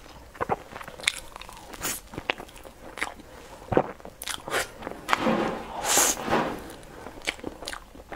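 Close-miked eating of a soft cream-filled cake roll: wet chewing and lip-smacking with many short sharp mouth clicks. A longer, denser patch of soft noise comes about five seconds in.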